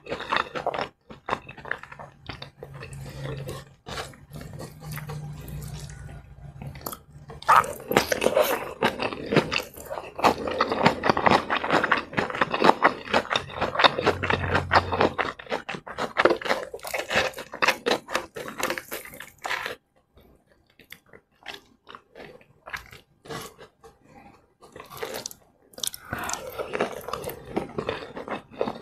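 Close-miked eating sounds: wet, clicky chewing and crunching of a mouthful of crispy fried chicken meal with rice and shredded cabbage salad, chewed with the mouth closed. The crunching is densest through the middle, thins out for a few seconds, then picks up again near the end.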